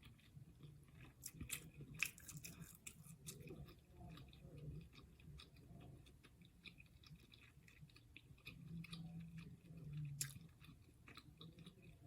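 A person chewing seafood close to the microphone, quietly, with many short wet clicks and smacks of the mouth.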